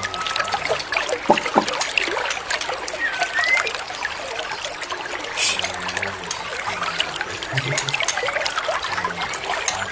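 Trickling water with birds chirping over it, with a few short whistled notes, one of them bending upward about three seconds in.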